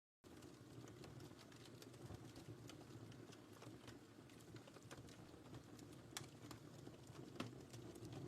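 Wood fire crackling in a fireplace: a low steady rumble of flames with scattered sharp pops and snaps, two louder pops in the second half. The sound cuts in after a split second of dead silence at the start.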